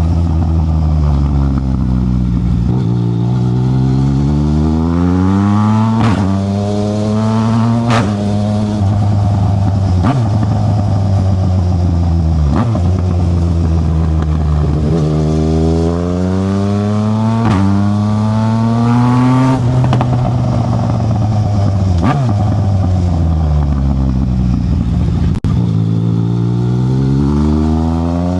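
Yamaha Tracer 900 GT's three-cylinder engine through an aftermarket Black Widow exhaust, revving up and easing off over and over while riding. Its pitch climbs and drops every two to three seconds with the gear changes and throttle, and there are short sharp cracks at several of the changes.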